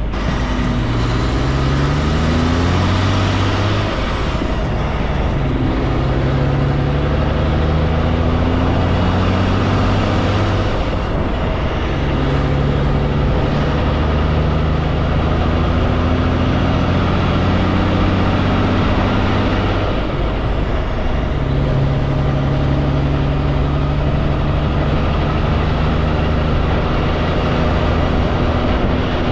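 Heavy truck's diesel engine under load, its note climbing and then breaking off about three times as the driver shifts up through the gears. A faint high whistle rises and falls over the top of it.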